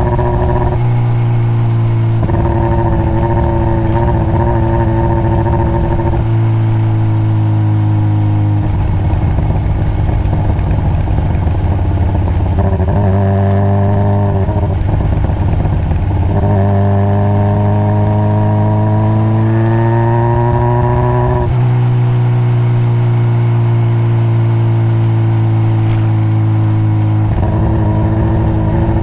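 2021 Honda CBR600RR's inline-four engine on its stock exhaust, heard from on board while riding. The engine note holds steady for stretches, climbs in pitch under throttle, and drops sharply as the gears change, most clearly at about 6, 8.5 and 21.5 seconds.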